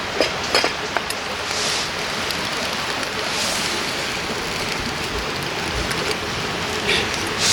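A river flowing steadily, with a few sharp clicks in the first second and soft hissing swells now and then.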